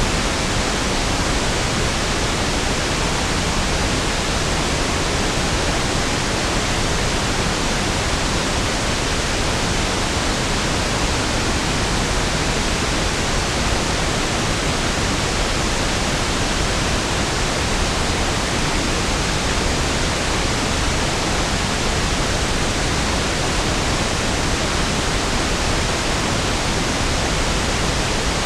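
Pink noise (1/f noise): a steady, even hiss spread across low and high frequencies, unchanging throughout.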